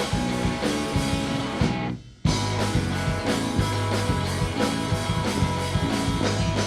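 Live rock band playing an instrumental passage with electric guitar and drums between sung lines. The music cuts out for a moment about two seconds in, then the band comes straight back in.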